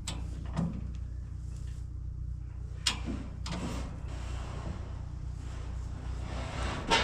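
Knocks and clatter of a grain conveyor being shifted and set up on blocks, with a longer scraping sound in the second half and a sharp knock at the end, over a steady low hum.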